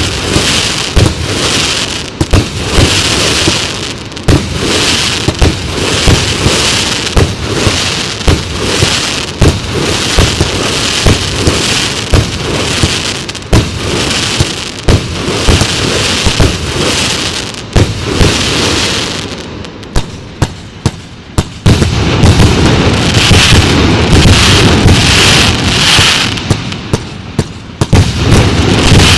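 Show Box 2 fan-shaped fireworks battery firing: a steady run of sharp bangs over a continuous crackling hiss. About two thirds of the way through it turns denser and louder, with a few more sharp bangs near the end.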